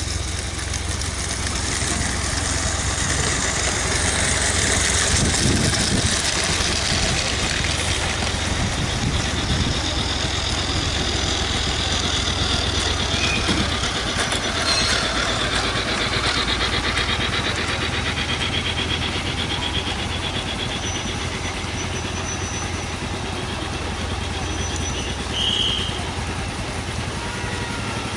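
Small-scale model locomotive running on a garden railway, with a steady hiss and a fast rhythmic patter in the middle, over constant outdoor background noise. A few short high chirps come near the end.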